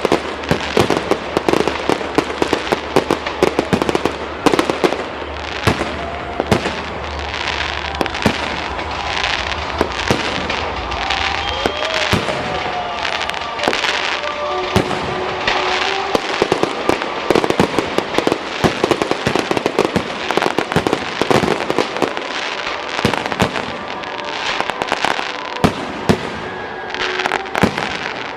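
Fireworks display: a dense, unbroken run of bangs and crackling pops from exploding shells, with no pause.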